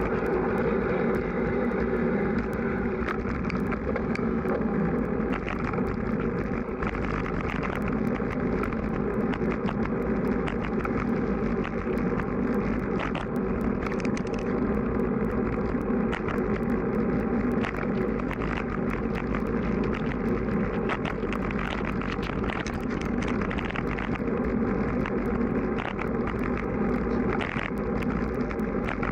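Road bike riding noise in strong wind: wind buffeting the microphone with a constant rushing hum, and many small clicks and ticks scattered through it.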